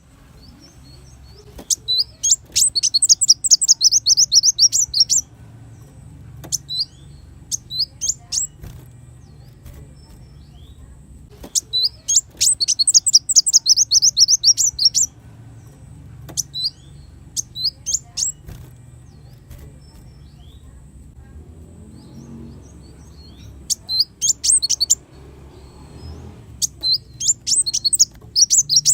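Kolibri wulung sunbird singing: rapid, very high-pitched twittering trills in bursts of a few seconds, with shorter chirp phrases and pauses between them. A faint low hum runs underneath.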